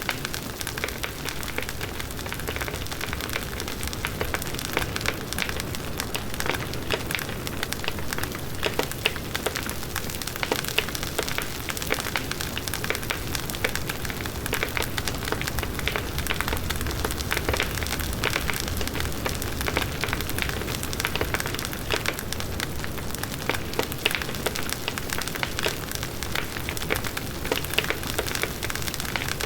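Large outdoor wood bonfire burning steadily: a constant rushing of flames with a low rumble, dense with small sharp crackles and pops from the burning wood.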